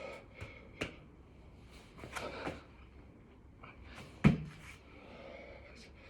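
Thumps and scuffs of a person doing burpees on the floor, with hard breathing between them; the loudest, deepest thump comes about four seconds in.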